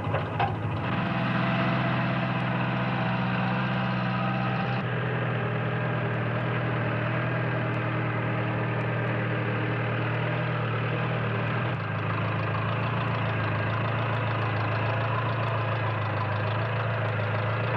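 Farm tractor engine running steadily at an even, low speed, with slight shifts in tone about a second, five seconds and twelve seconds in.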